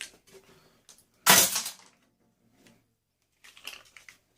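A single loud, sharp crack about a second in, from a part of an appliance being broken or knocked while it is stripped for scrap, followed by a few faint clicks near the end.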